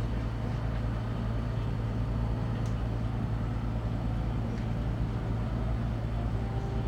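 Boat engine running with a steady low drone while under way.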